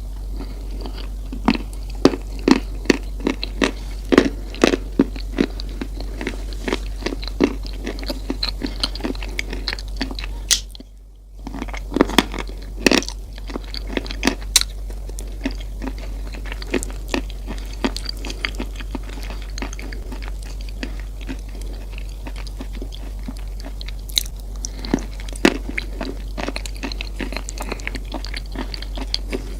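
Close-miked chewing and crunching of Coco Crunch chocolate cereal: dense, irregular crisp crunches, with a brief break partway through.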